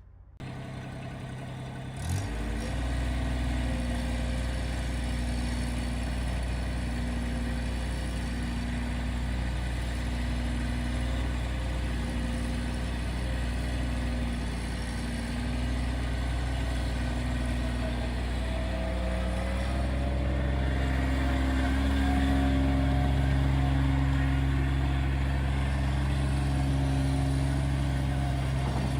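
Bobcat MT85 mini track loader's engine starting about two seconds in and then idling steadily. Around two-thirds of the way through its speed steps up and holds at a higher, louder pitch.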